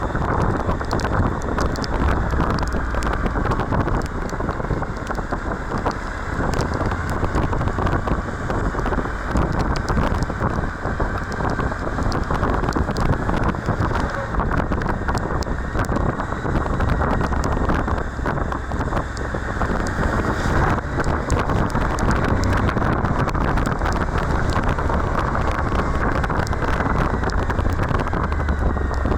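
Steady wind rush buffeting the microphone on a Suzuki V-Strom 1050XT at riding speed, with a low rumble of the moving motorcycle underneath.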